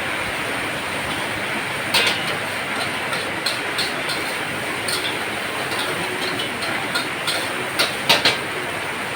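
Heavy rain falling steadily, with sharp irregular taps of drops striking something hard close by, a cluster of the loudest taps near the end.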